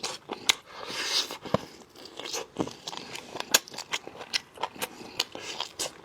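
Close-up eating sounds of a person biting and chewing braised spicy lamb chops, with many sharp, irregular clicks and crunches.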